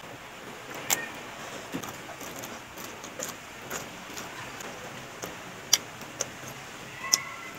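Crisp snaps and crunches of raw winged beans being broken and bitten, as scattered sharp clicks a second or more apart, the loudest about a second in and near the end.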